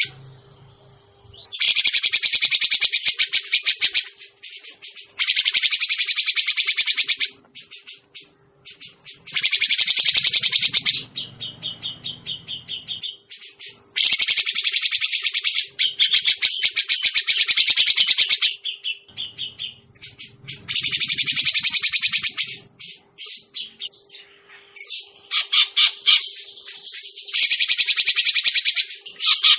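Cucak jenggot (grey-cheeked bulbul) lure call: bursts of rapid, high chattering notes, each about two seconds long, repeated over and over with short gaps.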